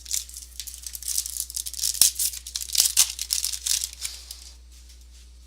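Wrapper of a trading-card pack being torn open and crinkled by hand, a dense rustling that lasts about four and a half seconds, with a couple of sharper snaps partway through.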